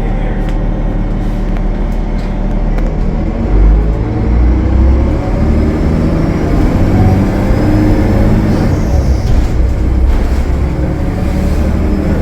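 Cummins ISL9 diesel engine of a Gillig Low Floor transit bus running under load, heard from on board. It gets louder about four seconds in and its pitch climbs steadily as the bus accelerates, with a faint high whine rising along with it.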